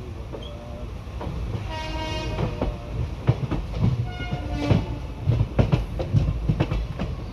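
Passenger train's steel wheels rolling slowly over the track, with a low rumble and a run of clanks and clicks over the rail joints in the second half. Two short blasts of a train horn sound about two and four and a half seconds in.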